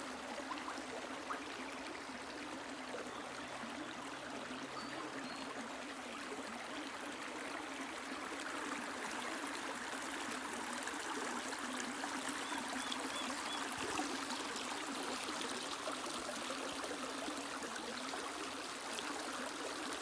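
Stream water flowing steadily, with a few faint high chirps about five and thirteen seconds in.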